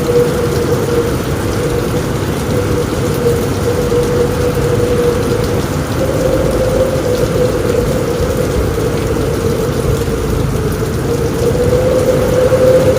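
Steady rain drumming on a roof, with a deep low rumble of thunderstorm underneath and a steady tone near the middle of the sound. The level stays even, with no single thunderclap.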